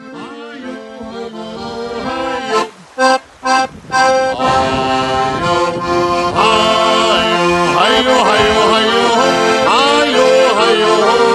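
Accordion (Schifferklavier) playing the closing bars of a sea shanty: short chords broken by two brief stops, then long held chords, loudest from about four seconds in.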